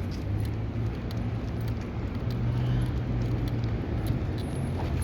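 Car engine idling with a steady low rumble, and faint light clicks over it.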